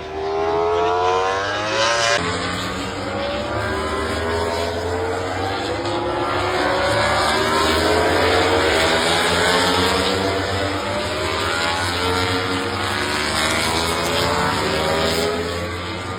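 MotoGP racing motorcycle engines (1000 cc four-cylinder prototypes) accelerating hard, pitch climbing as they rev; a sharp change about two seconds in, after which several engines rise in pitch together.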